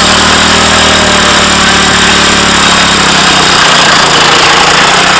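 Minibike's small engine running hard at a steady pitch during a burnout, with the rear tire spinning in place.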